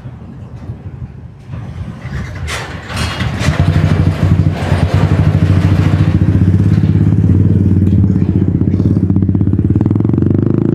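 Motorbike engine close by, growing much louder about three seconds in and then running steadily, its pitch rising near the end as it speeds up.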